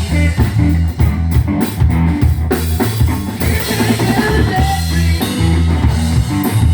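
Live rock band playing an instrumental stretch between sung lines: drum kit beating steadily under deep bass notes and guitar.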